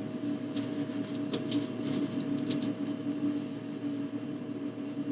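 A steady hum runs throughout, with several light clicks and taps from food containers and packages being handled, clustered in the first half.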